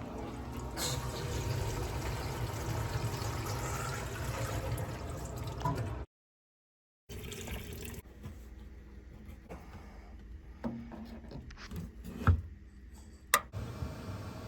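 Water running and pouring steadily, then after a cut, a quieter stretch with a few sharp clicks and knocks.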